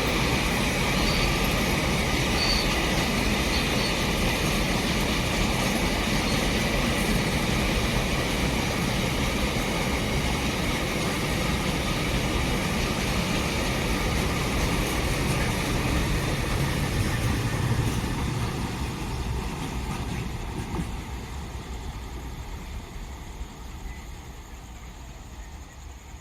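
Electric-hauled train running past on the track, a steady rushing rumble of wheels on rails that fades away over the last several seconds as it recedes.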